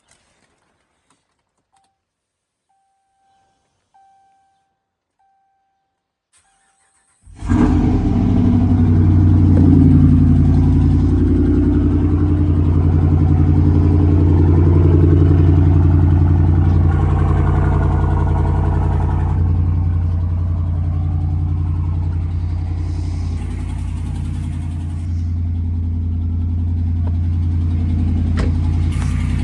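A few faint electronic beeps, then about seven seconds in a Ram pickup's engine starts abruptly and settles into a steady idle. The idle carries a tick that the owner puts down to an exhaust manifold leak rather than a lifter.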